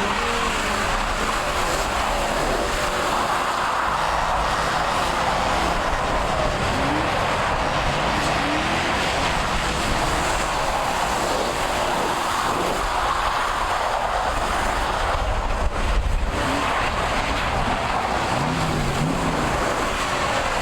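Vehicle engine revving over a steady hiss of tire noise.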